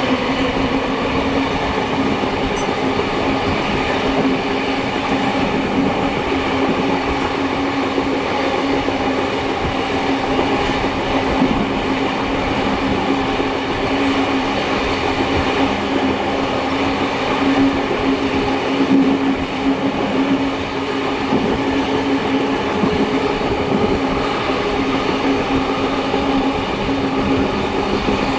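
Heritage steam-hauled passenger train running at speed, heard from a carriage: steady rolling noise with a constant droning tone throughout.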